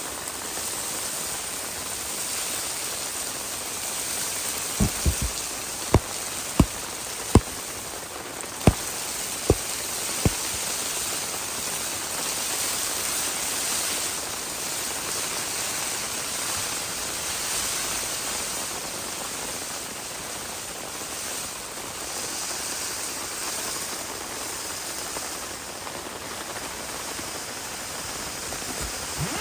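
Steady heavy rain, an even hiss, with a run of about eight sharp taps about a fifth to a third of the way through.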